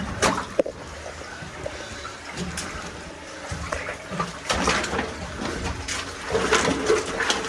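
Spring water trickling inside a cave, with irregular scuffs and scrapes of someone squeezing through a narrow rock passage, the busiest stretch in the second half.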